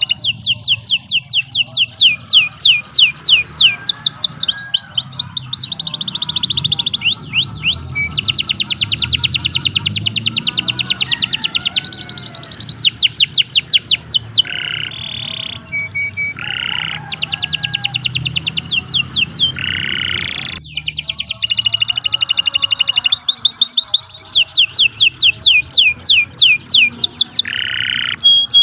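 Domestic canary singing a long, unbroken song of rapid trills: fast runs of repeated high notes, switching from one trill to the next, broken a few times by short buzzy notes.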